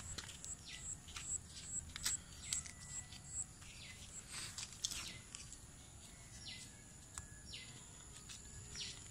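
Birds chirping: a high chirp repeated over and over for the first few seconds, then a run of short falling whistled notes, with a few sharp clicks among them.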